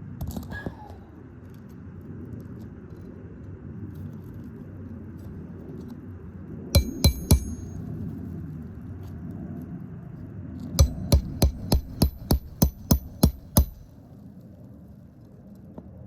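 Hammer driving a roofing nail down through an asphalt shingle, each blow ringing metallically. There are three quick strikes about seven seconds in, then a run of about ten steady strikes starting about eleven seconds in. A steady low background rumble runs underneath.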